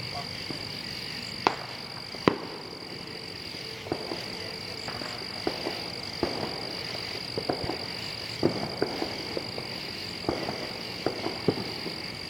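Irregular sharp pops of small fireworks: two loud cracks about one and two seconds in, then a scattered run of smaller pops. Under them runs a steady high-pitched night chorus.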